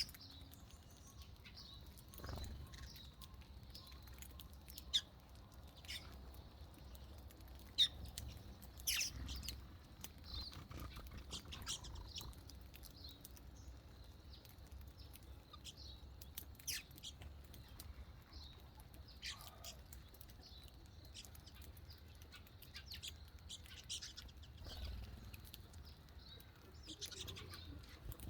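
Small birds chirping: short, scattered high chirps and calls over a faint low rumble, with two sharp clicks about 5 and 8 seconds in.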